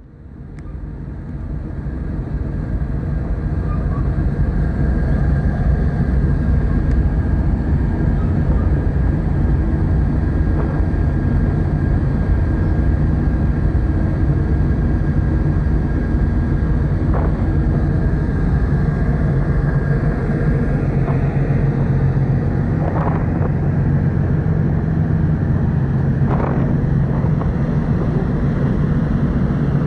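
Steady low drone of the car ferry Kuniga's engines, fading in over the first few seconds, with a faint thin whine above it for most of the time.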